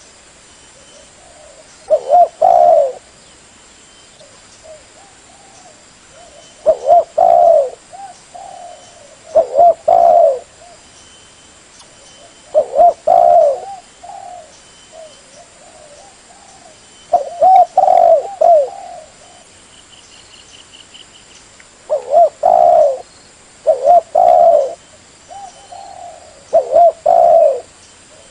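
Spotted dove (tekukur) cooing: short cooing phrases repeated every few seconds, as used in a lure call to attract wild doves.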